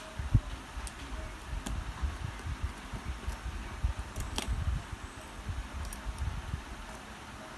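A few small, sharp clicks and taps of tools and watch parts during a wristwatch battery replacement, over a low rumble of handling.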